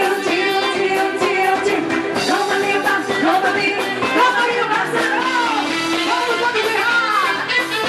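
Loud live band music in frevo style, with a singer's voice gliding over a dense, steady accompaniment.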